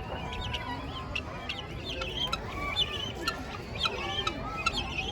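Chickens clucking, with many short high calls overlapping.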